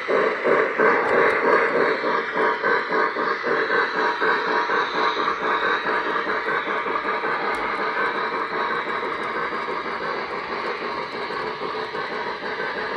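O-gauge Lionel Legacy Lehigh & Hudson River 2-8-2 steam locomotive and cars running around the track, wheels clattering rapidly on the rails. The sound slowly gets quieter as the train moves away.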